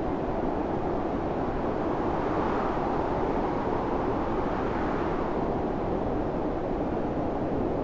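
Storm wind blowing in a steady rush that swells and eases twice, without a clear howling pitch.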